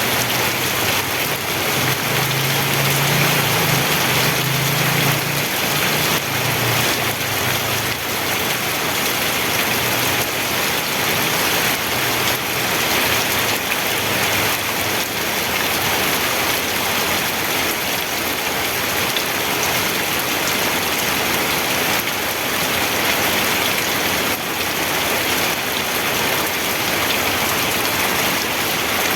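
Steady rain falling, an even hiss of many drops on a surface. A low rumble sits under it for the first several seconds, then fades away.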